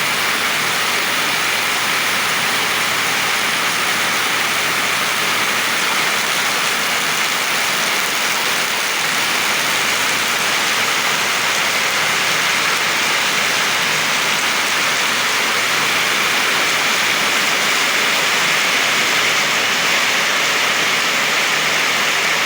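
Heavy rain falling in a steady downpour, an even wash of noise that does not let up.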